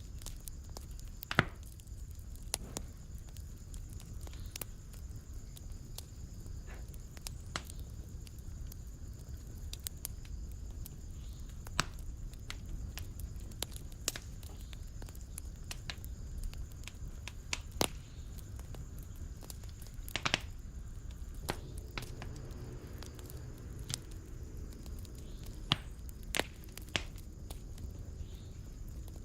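Wood fire burning in a fireplace: a low steady rumble of flames with irregular sharp pops and snaps, a few of them much louder than the rest.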